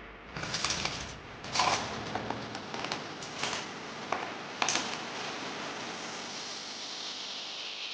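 Kitchen cleaning sounds: several sharp knocks and clatters over about the first five seconds, then a steady hiss.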